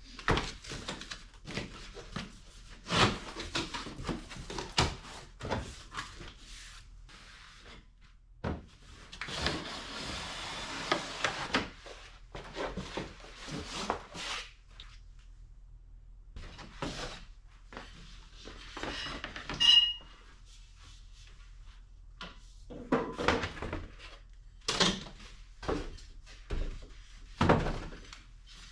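Workshop handling noise: scattered knocks, thunks and clatter of tools and parts being picked up and set down, with a few seconds of rustling about ten seconds in and a brief metallic ping about two-thirds of the way through.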